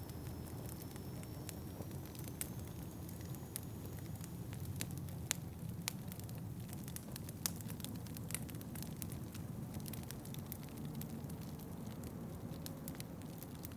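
Wood fire crackling in a fireplace, with dense small snaps and a few louder pops near the middle, over a steady low rumble.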